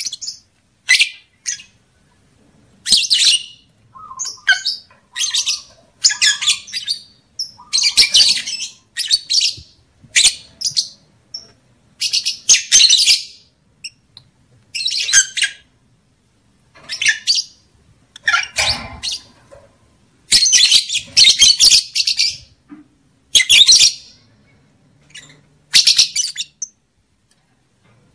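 Lovebirds calling: harsh, shrill chattering and squawking in short irregular bouts with brief gaps between them, the kind of lovebird calling that is played to caged birds to bring males and females into breeding condition.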